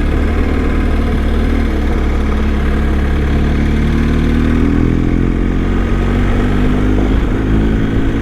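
BMW R1250 motorcycle's boxer-twin engine running under way, with heavy low rumble; its note rises and falls a few times as the speed changes.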